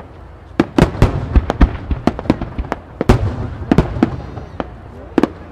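Aerial firework shells bursting in a rapid barrage: many sharp bangs, about two to three a second, irregularly spaced and echoing, with a brief faint whistle a little past the middle.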